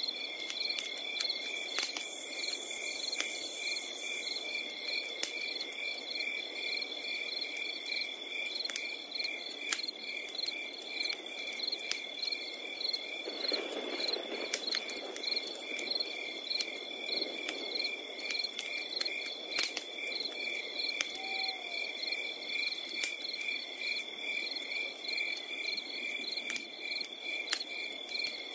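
Crickets chirping in a fast, steady pulse, layered over a low hiss with scattered sharp crackles from a campfire. The hiss swells briefly about halfway through.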